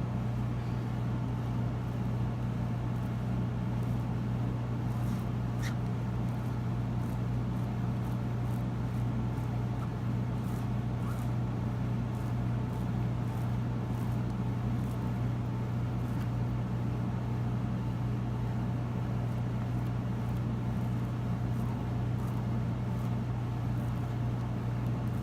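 Steady low background hum at an unchanging level, with a few faint light ticks over it.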